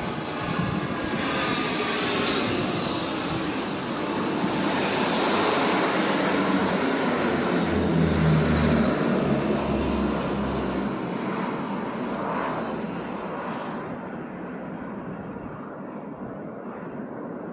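Boeing 747 air tanker's jet engines passing low overhead, building to a peak about halfway and then fading away.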